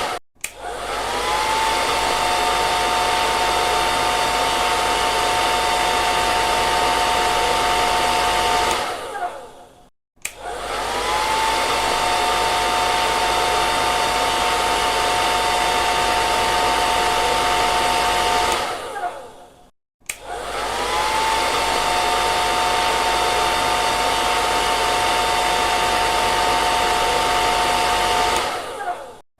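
Handheld hair dryer blowing, switched on three times. Each time its motor whine rises, holds steady over a rush of air for about nine seconds, then falls away as it shuts off.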